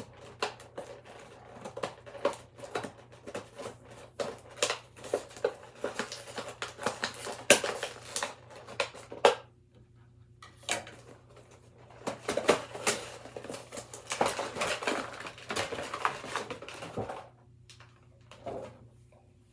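Plastic blister packaging of a carded action figure being cut into and pulled apart, with rapid crackling, clicking and crinkling of the stiff plastic. It pauses briefly a little before halfway and dies down to light handling near the end.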